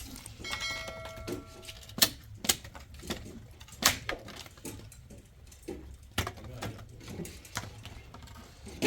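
Irregular knocks and clatter of hard objects being handled and set down. A brief metallic ring sounds near the start, as of a struck metal item.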